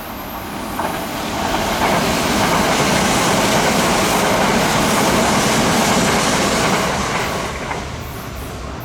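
Kintetsu electric train passing by. Its noise swells over the first couple of seconds, holds loud and steady, and eases off near the end.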